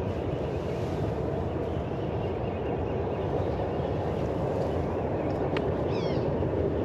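Steady low rumble throughout, with a short songbird call of a few quick chirps about six seconds in.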